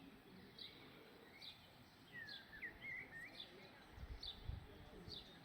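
Faint birdsong: a short high chirp repeated about once a second, with a brief warbling call in the middle. A short low rumble about four seconds in.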